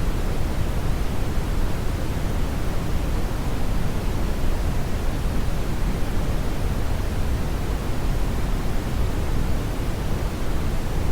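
Brown noise: a steady, deep rushing hiss, strongest in the low end and thinning toward the highs, unchanging throughout.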